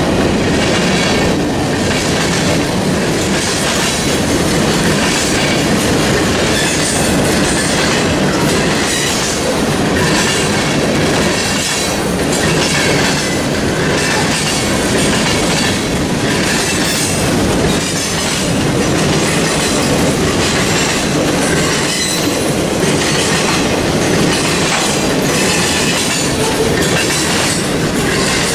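A train's cars rolling past at track side, the wheels clacking over rail joints in a steady rhythm about once a second.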